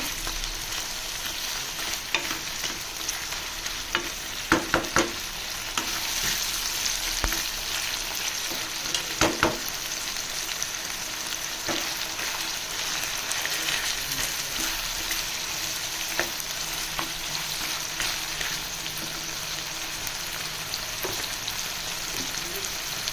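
Chicken pieces frying in hot oil in a pan, a steady sizzle, while a spoon stirs and scrapes them against the pan. A few sharper knocks of the spoon on the pan come about four and a half and nine seconds in.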